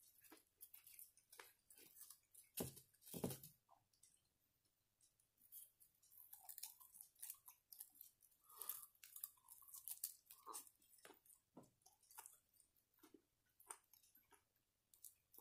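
Faint, close-up chewing and biting of deep-fried squid (ika karaage): irregular crunchy, crackling bites and wet mouth sounds, loudest about three seconds in.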